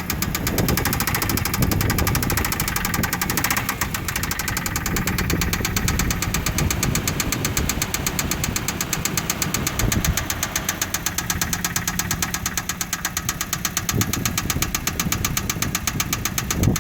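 Mitsubishi engine running with a rapid, steady knock that repeats evenly throughout.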